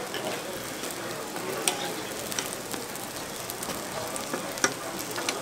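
Hotteok frying in oil on a griddle: a steady sizzle, with a few sharp clicks scattered through it.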